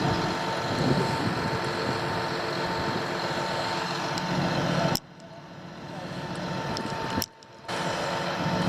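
Heavy construction vehicle engine running steadily, with a thin steady high tone over it. The sound drops away suddenly about five seconds in, builds back up, and cuts out briefly again a couple of seconds later.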